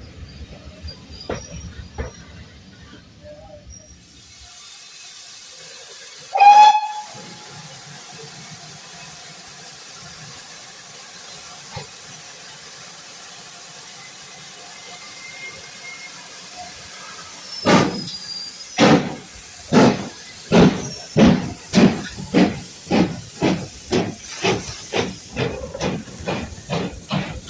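A steam locomotive starts away. A steady hiss of steam begins, a short loud blast on the steam whistle follows, and then the exhaust beats start slow and get quicker as the engine picks up speed.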